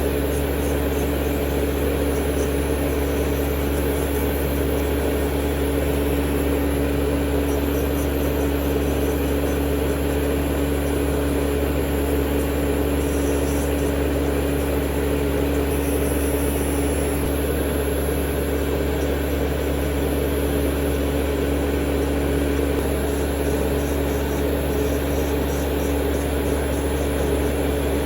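Electric nail file (e-file) motor running steadily at high speed, a constant hum with a high whine, as a bit works on the nail.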